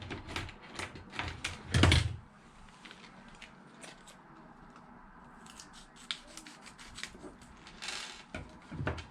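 Scissors and other workbench items being handled: scattered sharp clicks and knocks, with a louder thump about two seconds in.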